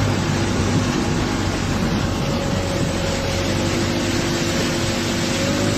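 Loud rushing water of a tidal bore surging up the Digul River, with a motor's steady hum underneath.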